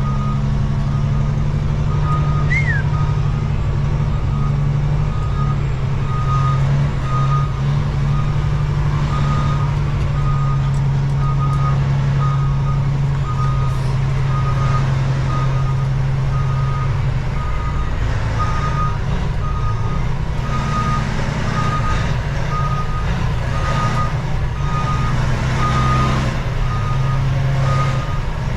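Semi truck's backup alarm beeping steadily at one pitch while the truck reverses, over the low, steady running of its diesel engine.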